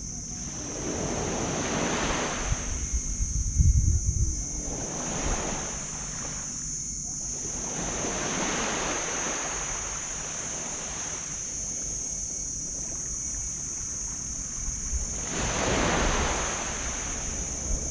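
Small tropical waves breaking and washing up on a sand beach, surging in about four slow swells. A gust of wind buffets the microphone about three to four seconds in, and a steady high hiss runs underneath.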